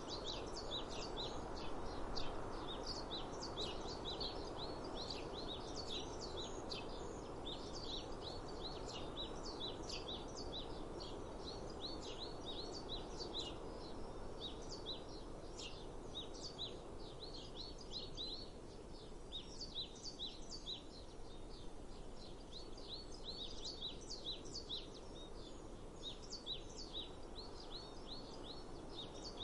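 Many small birds chirping continuously, short high chirps overlapping, over a steady outdoor rush of noise that eases in the second half.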